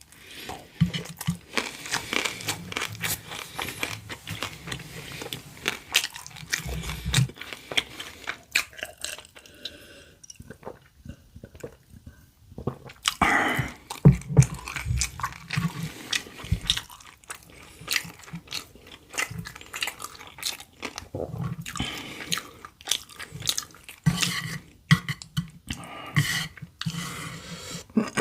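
A person chewing and biting food close to the microphone: wet mouth sounds and crisp crunches in an irregular stream, briefly quieter about ten to thirteen seconds in.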